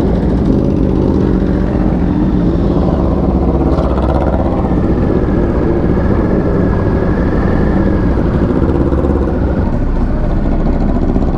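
Motorcycle engine running steadily at idle, close to the microphone, with no revving.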